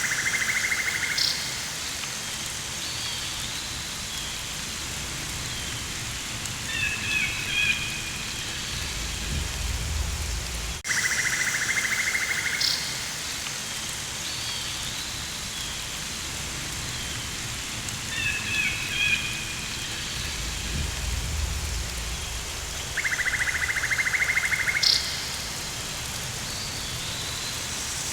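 Looped rainforest ambience: a steady rain-like hiss with a pulsed insect buzz, a few bird chirps and a low rumble, the same stretch repeating about every eleven seconds with a brief dropout where the loop joins.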